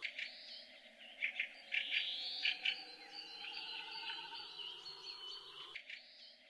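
Songbirds singing: repeated short, high chirps and rising-and-falling phrases. A faint low background noise drops out near the end while the birdsong continues.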